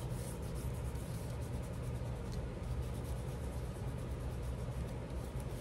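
Steady low background hum with faint, scattered light rustles and ticks from paper being handled on a craft table.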